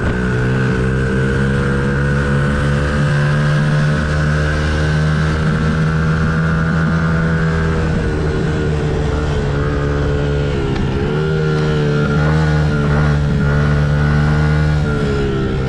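Small 50cc mini race bike engine heard from the onboard camera, held at high revs down the straight. The revs dip about eight seconds in, pick up again, and fall near the end as the bike slows for a corner.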